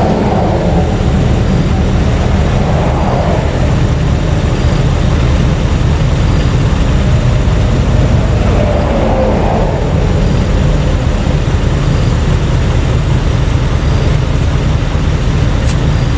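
Interstate traffic rushing past close by: a steady heavy rumble, with a few vehicles audibly passing around three and nine seconds in.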